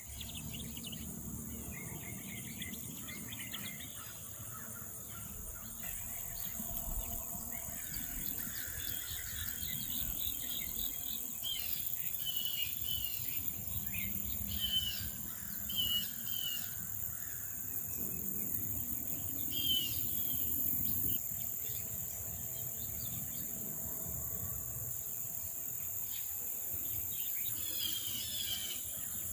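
Wild birds calling in short repeated chirps over a steady, high-pitched chorus of insects.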